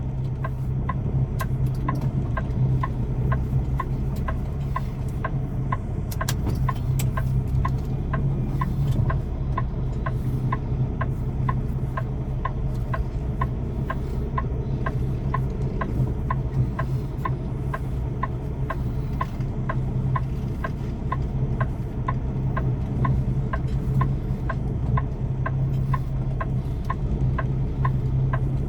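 Semi-truck's diesel engine running at low speed, heard from inside the cab, with a steady light ticking of about two or three ticks a second, like a flasher relay clicking.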